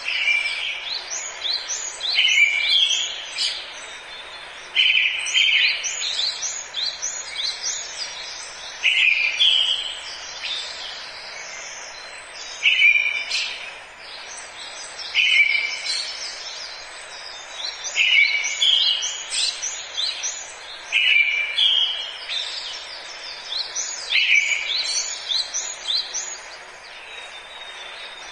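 A songbird singing the same short phrase over and over, about every two to three seconds: a lower note followed by a quick run of higher notes. A steady hiss of forest ambience runs underneath.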